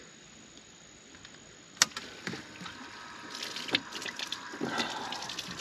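Water being poured over a person and splashing, starting about three seconds in and building up, after a single sharp click shortly before.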